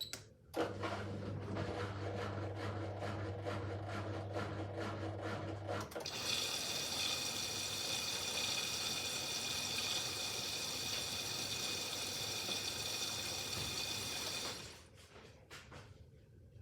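Miele W5801 WPS washing machine taking in water at the start of its wash cycle. A click, then a low hum with pulsing water for about five seconds, then a steady loud hiss of inflowing water that cuts off about two seconds before the end.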